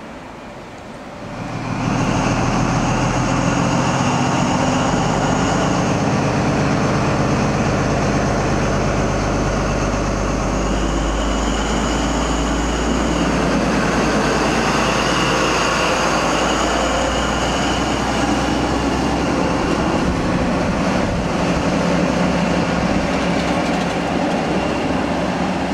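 Diesel passenger train at the platform, its engines running loudly with two steady high whistling tones over a low rumble, starting suddenly about a second and a half in.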